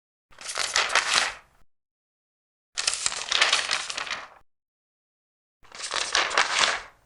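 Large paper pages being turned, three times: each turn is a papery rustle and crackle lasting about a second and a half, with silence between the turns.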